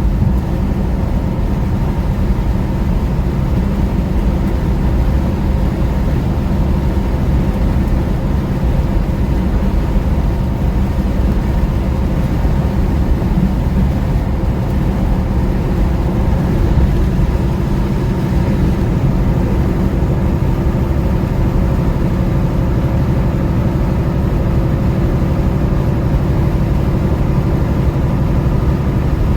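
Steady drone of a semi-truck's diesel engine and road noise, heard from inside the cab while driving.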